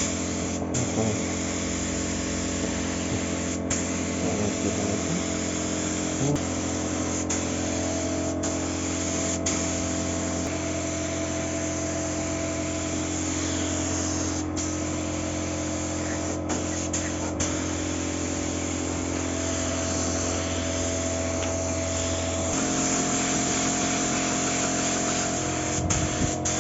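A motor running steadily with a hiss over several steady tones; its tone shifts a little near the end.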